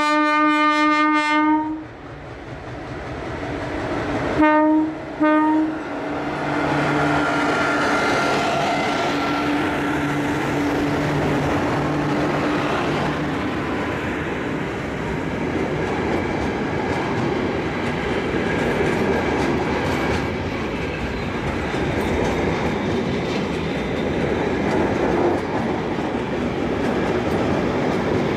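Air horn of an MLW diesel locomotive: one long blast, then two short blasts about four seconds later. The locomotives' diesel engines hum past, then a long train of loaded pipe wagons rolls by with a steady rolling noise of wheels on rail.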